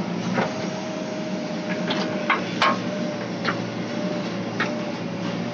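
Backhoe loader running steadily with a thin, even whine, while about seven sharp metallic knocks sound at irregular intervals through the work.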